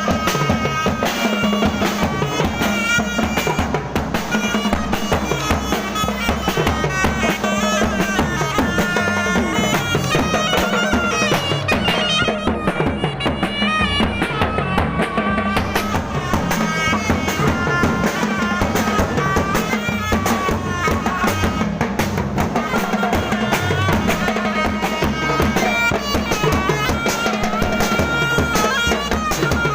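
Thai traditional procession band playing: drums and percussion keep a steady beat under a reedy wind instrument carrying a wavering melody over a held drone.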